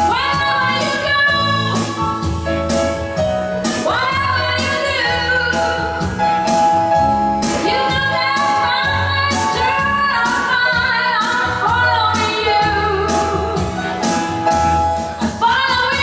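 A woman singing a pop song with long, wavering held notes over backing music with bass and a steady drum beat.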